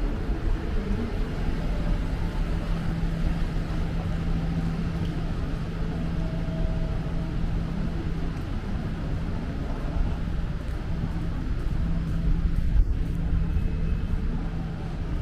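Steady low rumble of city street traffic, with a steady engine-like hum running through it.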